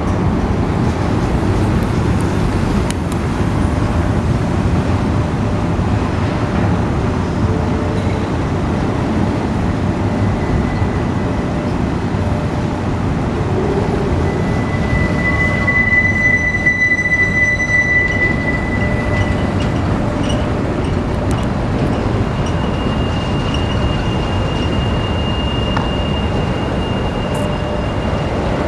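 Union Pacific freight train's cars rolling past with a steady rumble. Steel wheels squeal on the rails in a high thin tone about halfway through, and again in a slightly higher tone near the end.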